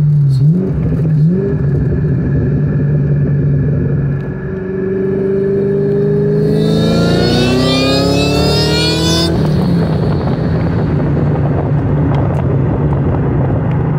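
2003 Ford Mustang SVT Cobra's supercharged 4.6-litre V8 heard from inside the cabin. Two short rev blips come first. From about four seconds in comes a hard acceleration pull, the engine note and a high whine rising together for about five seconds. Then it cuts off abruptly and falls back to a steady cruising drone.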